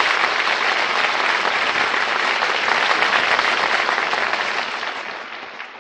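Studio audience applauding, a steady wash of clapping that fades away near the end.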